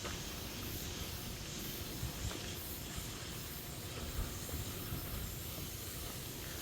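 Outdoor ambience on a mountain trail: a steady high hiss that swells gently in a slow pulse, over a low rumble, with a few faint ticks.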